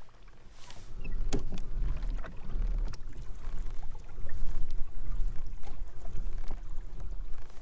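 Kayak moving on the water: a heavy, uneven low rumble with scattered knocks and splashy clicks, picking up about a second in.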